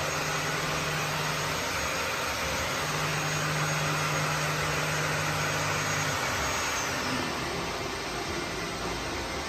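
Woodworking machine running, a dense steady noise with a thin high whine and a low hum. The hum breaks off briefly early on and stops about six seconds in, and the whine falls away about seven seconds in as the machine winds down.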